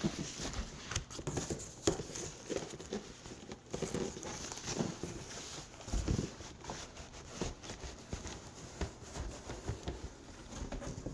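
Cardboard box and packing being handled and opened: scattered knocks and thuds, with rustling and crinkling of packaging.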